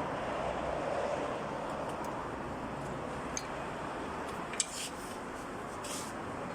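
A few short light clicks and scrapes over steady background noise while brake pads are being fitted to a Mitsubishi Pajero's brake: one click about halfway through, then a sharper click and brief scraping near the end.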